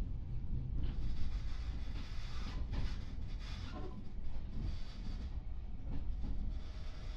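JR 415 series electric multiple unit running, heard inside the passenger car. A steady low rumble of wheels and running gear, with scattered short clicks from the track.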